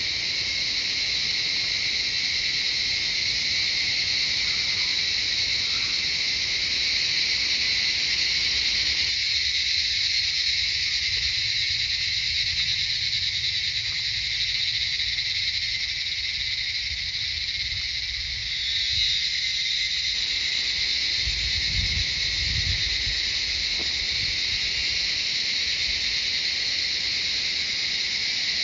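A chorus of cicadas singing in a steady, unbroken, high-pitched drone. A brief low rumble sounds about twenty seconds in.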